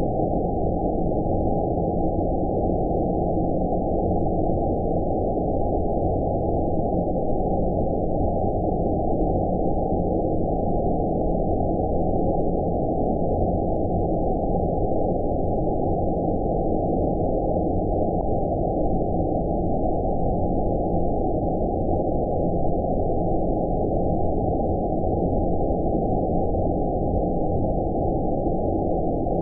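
Steady, deep, muffled noise of a 'space' sleep-noise track: an even hiss-like wash with no high end, cut off sharply above about 900 Hz, unchanging throughout.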